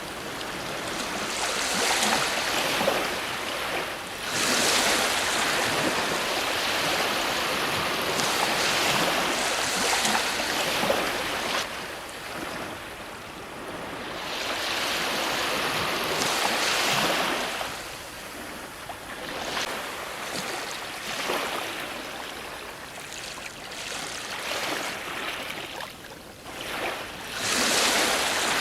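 Ocean waves breaking on a shore: surf washing in and out, swelling to loud crashes a few seconds in and again in the middle and near the end, with quieter wash between.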